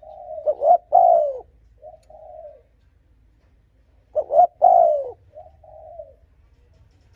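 Spotted dove cooing: two phrases about four seconds apart, each a couple of quick short notes, then a longer, falling coo and a softer trailing coo.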